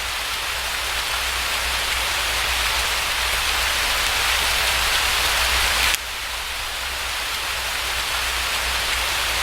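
Steady, dense rain hiss. About six seconds in it drops abruptly in level and then slowly swells back, like a rain recording looping.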